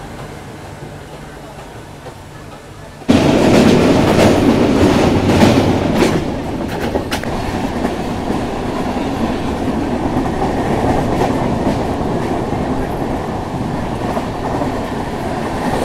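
Passenger train running, heard from the open doorway of a moving coach: a quieter rumble for about three seconds, then a sudden loud rush of wheel and wind noise. The wheels clatter with a few sharp clicks over rail joints, then the rumble settles into a steady run.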